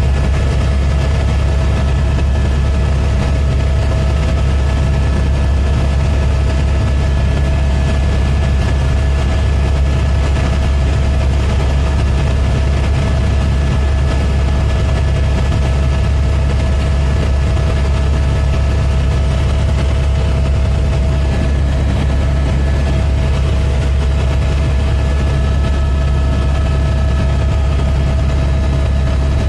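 Helicopter engine and rotor drone: a loud, steady low rumble with a thin constant whine above it.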